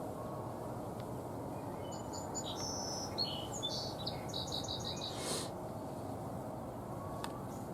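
A songbird singing one phrase of high notes about two seconds in, ending in a quick run of repeated notes, over a steady low background noise.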